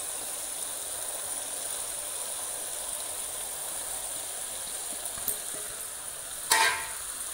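Oil and fried masala sizzling in a steel kadai as chopped green beans are poured in: a steady hiss. About six and a half seconds in there is one brief clatter.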